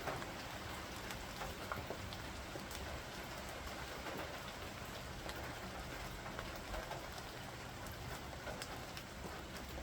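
Steady rain falling in a thunderstorm, with many single drops ticking close by.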